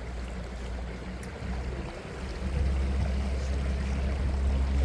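Canal tour boat's engine running steadily with a low hum, growing louder about two and a half seconds in.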